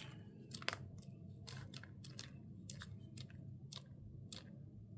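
Paper being handled, as when a sticker book and its sticker sheets are handled: faint, irregular crinkles and ticks.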